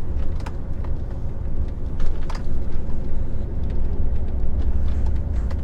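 HGV diesel engine running at low speed, heard inside the truck's cab as a steady low rumble, with a few light knocks and rattles scattered through it.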